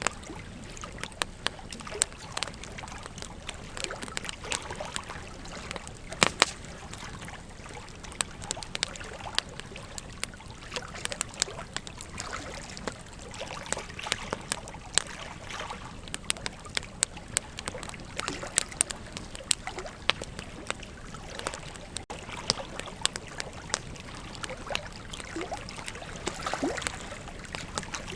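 Wood fire crackling, with frequent sharp pops, over a steady wash of flowing river water.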